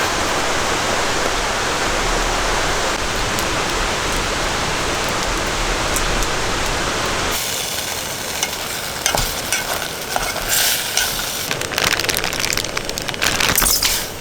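Steady, dense rain noise. About seven seconds in it cuts abruptly to sizzling and crackling with many sharp clicks.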